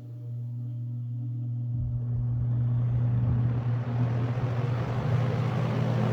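Vintage Coast to Coast Air box fan running: a steady electric-motor hum under a rush of moving air that grows louder over the first few seconds, then holds. The wah-wah bearing noise is gone now that the front bushing bearing has soaked up fresh oil.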